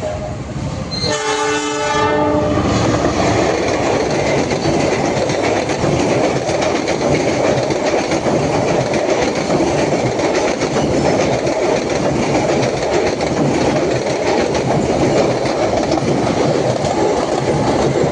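A train horn sounds for about a second and a half, then a train passes close by with a steady, loud rumble of wheels on the rails.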